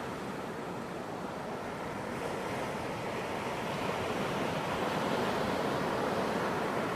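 Ocean waves washing onto a beach: a steady surf rush that swells gently toward the middle.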